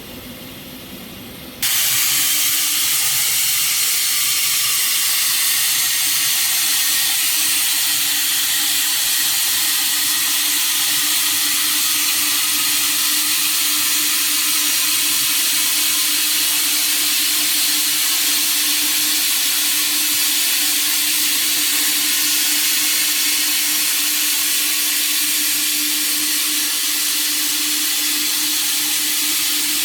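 Plasma torch cutting pipe on a CNC pipe cutter: a loud, steady hiss that starts abruptly about two seconds in, with a steady hum underneath.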